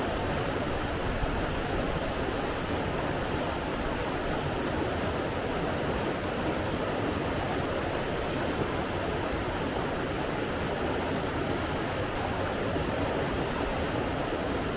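Flowing water rushing steadily, an even hiss-like roar with no surges or breaks.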